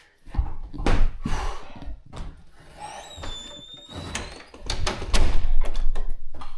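A series of knocks and clunks in a small room, with a brief high squeak about three seconds in and a louder rumbling handling noise near the end.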